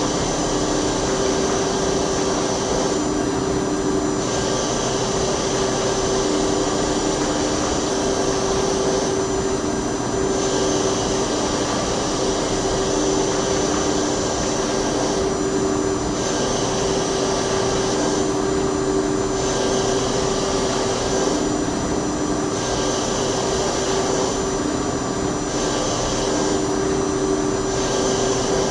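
PLG-42XL CNC gang-tool lathe cutting steel: a steady machine hum with a couple of held tones, under a higher hiss that drops out for a second or so every few seconds.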